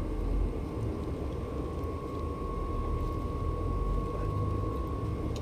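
Steady low mechanical rumble with a thin, even whine held over it, like a running motor or fan in the room.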